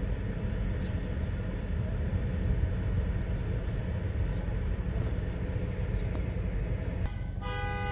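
Steady low rumble of a car running. Near the end, a steady tone of several pitches comes in.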